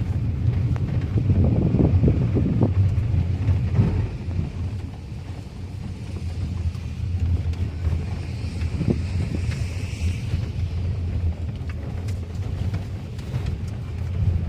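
A car being driven: a steady low engine and road rumble, louder for the first few seconds and then easing off.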